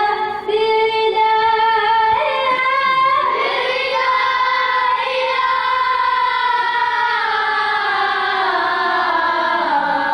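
Arabic devotional elegy sung by a high voice, holding long notes that bend slowly and break into ornamented runs, with no drums heard.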